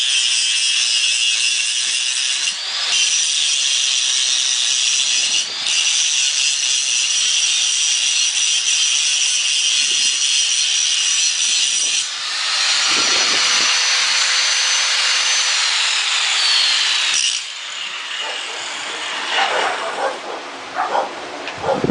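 Power grinder working metal with a loud, high-pitched whine, easing off briefly twice. Later the disc runs free and winds down, falling in pitch, and stops about three-quarters of the way through. Quieter scattered knocks follow.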